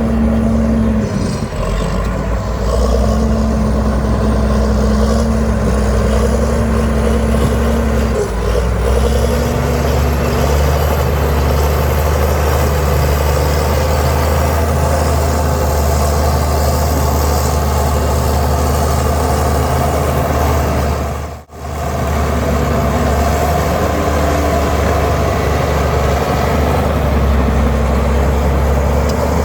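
Heavy diesel earthmoving machinery running steadily under load, its engine drone broken by a sudden brief dropout about two-thirds of the way through.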